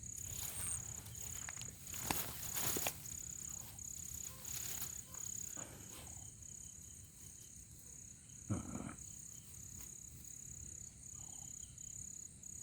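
Scattered rustling and scraping noises over the first few seconds, with a short louder low sound about eight and a half seconds in, over an insect's high chirp pulsing steadily about once a second.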